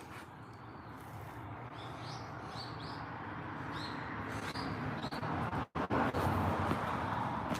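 A small bird chirping in a series of short, high notes over a steady background noise that grows louder, with a momentary cut-out about two-thirds of the way in.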